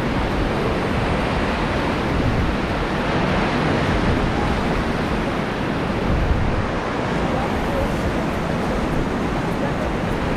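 Fast-flowing water of the Ganges river rushing around a raft: a steady, unbroken rush of noise.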